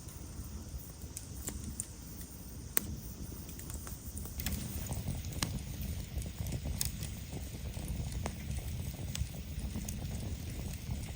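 Campfire of gathered branches burning, with a low steady rumble and scattered sharp pops and crackles, a few seconds apart.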